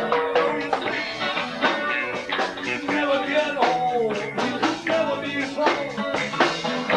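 Live rock band playing: electric guitar, bass guitar and drum kit, with steady drum hits and bending melodic notes over them.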